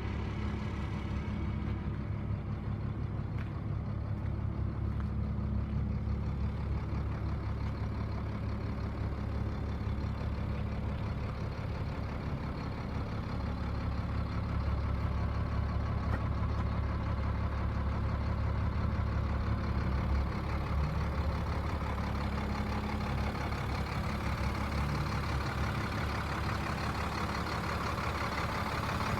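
1997 Freightliner bulk fuel truck's diesel engine running steadily with a low, even drone.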